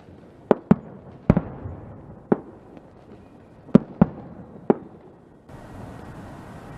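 Fireworks going off: about seven sharp bangs at uneven intervals, some in quick pairs, with crackly echo between them. From a little past halfway the bangs stop and a steady hiss carries on.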